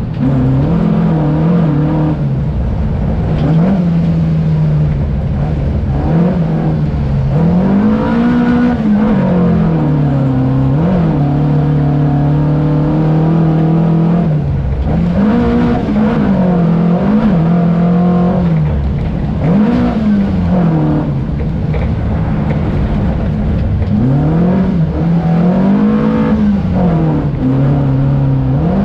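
Volvo 242 rally car's four-cylinder engine heard from inside the cabin, driven hard. The revs climb and drop again about a dozen times as it accelerates, shifts and lifts.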